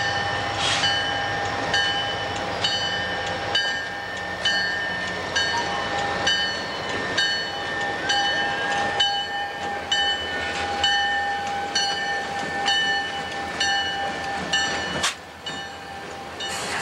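CSX freight train passing close by, locomotive first and then cars. Several steady ringing tones sound over a regular clack that comes about once a second. Near the end there is a sharp click and the sound drops away.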